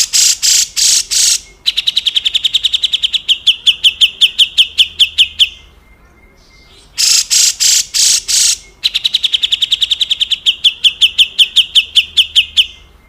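Cucak jenggot (brown-cheeked bulbul) giving its harsh, rasping 'besetan kasar' call. A few loud rough notes lead into a long, fast rattle of clicking notes that slowly falls in pitch, and the phrase is given twice.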